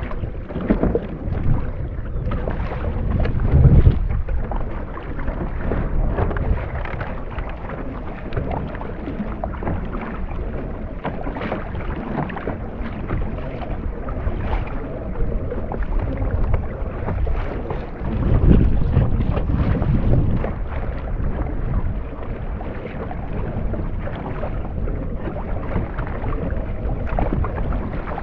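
Water sloshing and wind rumbling on the microphone around a kayak, a steady noise with two stronger low surges, about four seconds in and again around nineteen seconds.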